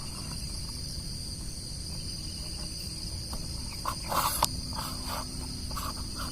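Steady high-pitched chorus of insects chirring in a garden at dawn, with a few short scratchy sounds about four seconds in.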